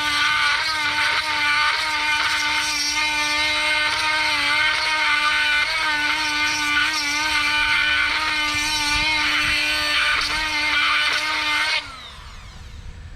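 High-speed rotary tool with a cutting bit grinding into a weld on a bolt, giving a steady high whine that dips slightly as the bit bites. Near the end it is switched off and winds down.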